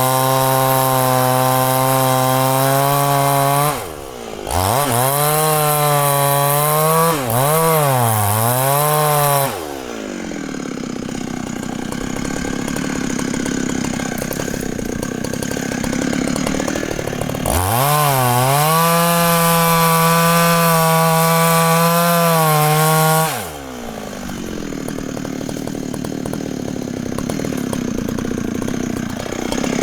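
Large Husqvarna two-stroke chainsaw cutting at full throttle, its pitch wavering as it loads and unloads in the cut. About ten seconds in it eases off to a quieter run, revs back up for several seconds of steady cutting past the middle, and then drops off again near the three-quarter mark.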